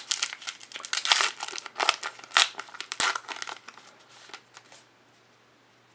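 Trading card pack wrapper being torn open and crinkled, a dense run of sharp crackles and rips that stops about five seconds in.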